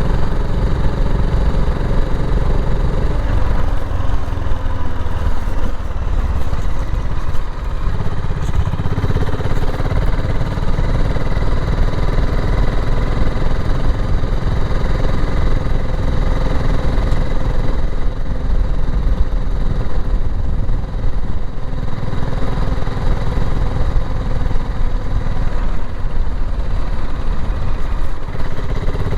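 BSA Gold Star 650 single-cylinder motorcycle engine running steadily while being ridden at low speed, heard from on the bike.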